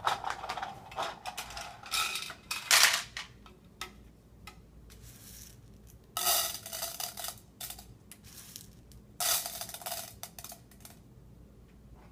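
Small hard loose objects, beads and rice, rattling and pouring in a bucket in about three separate spells.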